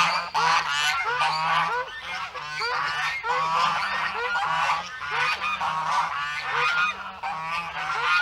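A flock of geese honking, many short calls overlapping at about two or three a second, with a steady low hum underneath.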